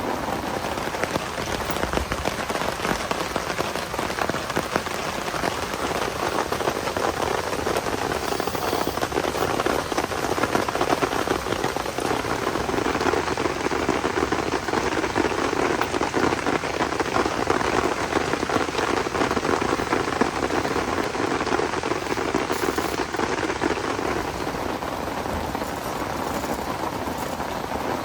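Heavy rain falling steadily, a dense patter of many drops, swelling a little louder through the middle.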